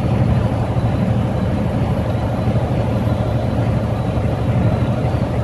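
Steady low drone of engine and tyre noise from a car travelling at highway speed, heard from inside the car.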